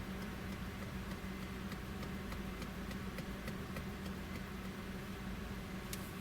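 Car running and driving, heard from inside the cabin: a steady low rumble with a constant hum, and faint regular ticks about three times a second.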